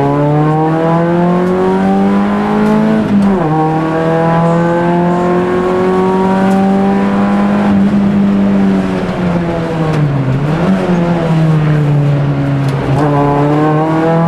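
Rally car engine heard from inside the cabin, pulling hard with the revs climbing, then falling sharply at an upshift about three seconds in. The revs build again and hold high, dip and pick up around ten seconds in, and drop and climb again near the end.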